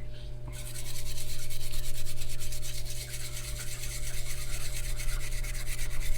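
Wire brush scrubbing carbon off a carburetor section in quick, even strokes, starting about half a second in, over a steady low hum.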